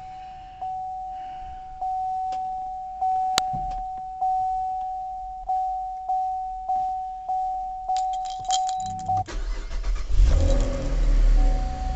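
Dashboard warning chime pinging repeatedly in a high steady tone, then the 2015 Chevrolet Camaro's 3.6-litre V6 cranks and catches about nine seconds in on a cold start, flaring loud before settling to a fast idle as the chime starts again near the end.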